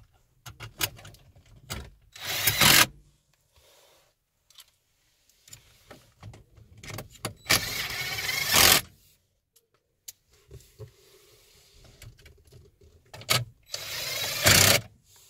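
Plastic parts and wiring being handled during an in-dash connector install: scattered clicks and three loud scraping, rustling noises, each about a second long, about two, seven and a half, and fourteen seconds in.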